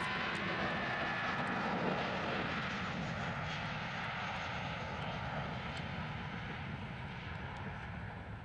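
Airliner's engines running as the plane passes, a steady rushing noise with a faint whine, gradually fading away.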